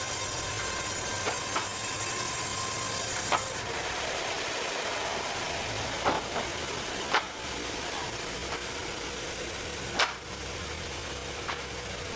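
Band sawmill working hardwood: a steady mechanical running noise with faint steady tones, broken by irregular sharp knocks, about six or seven, as the machine and the wood knock together.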